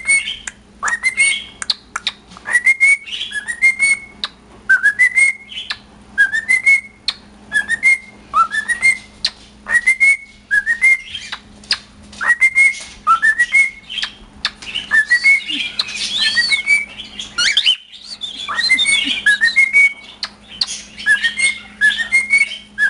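Male cockatiel singing: a rising whistle repeated roughly once a second, with short clicks between the phrases and a more warbling, tangled stretch about two-thirds of the way through.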